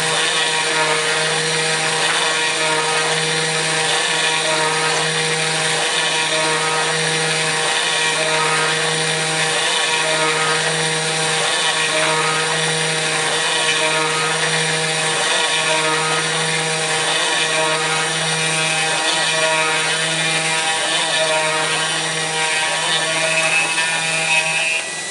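Kress FME-1050 router spindle running steadily on a CNC mill while cutting aluminium, a dense whirring noise with steady tones in it. Under it a low hum breaks off briefly every second or two.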